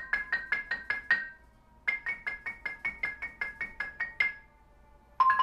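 Xylophone played with mallets: quick, evenly paced single strokes, about five a second, in two runs with a short break between them. Near the end a rapid roll begins.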